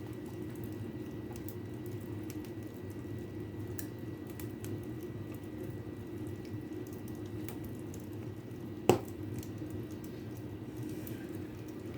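Fire burning in a fireplace, with faint scattered crackles over a steady low hum, and one sharp loud pop about nine seconds in.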